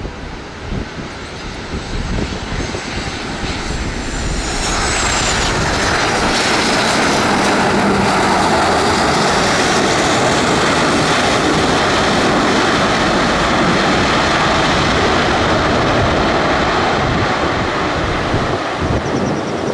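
Airliner engines passing close. A roar builds, jumps sharply about four and a half seconds in with a high whine sliding down in pitch, then holds loud and steady for over ten seconds before easing near the end.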